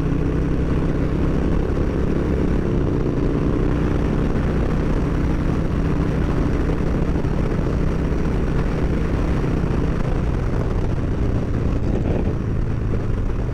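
Harley-Davidson Street Bob's V-twin engine running steadily at highway cruising speed, heard from the rider's seat and mixed with wind rush.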